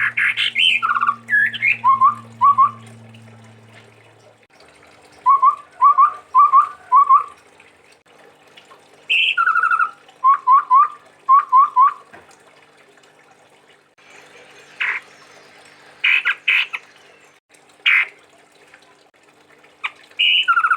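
Chestnut-rumped babbler (tepus tunggir merah) singing: quick phrases of four or five short rising whistled notes, with harsher short calls in the later part. A low hum runs under the first few seconds.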